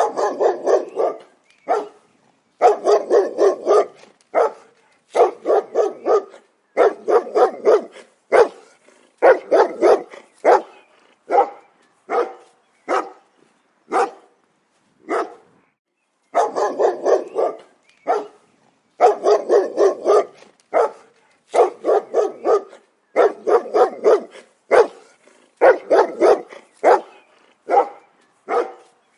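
Dogs barking aggressively in rapid volleys of several barks, with short pauses between the volleys.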